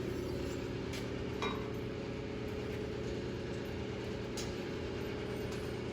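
A steady low machine hum with a held tone, with a few faint light clinks of metal parts being handled.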